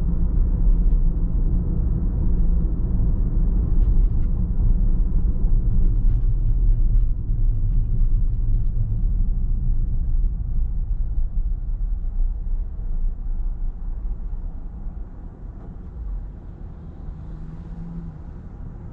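Car driving: a steady low rumble of road and engine noise, which grows quieter from about halfway through.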